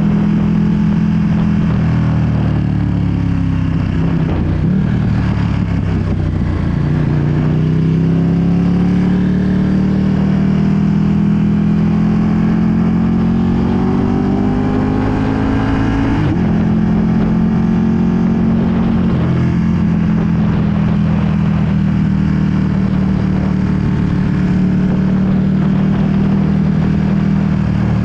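2020 Ducati Panigale V2's 955 cc L-twin engine through a full Akrapovic exhaust, heard while riding. The revs fall a few seconds in, then climb steadily under acceleration for about eight seconds. They drop suddenly at an upshift, then hold fairly steady at cruise.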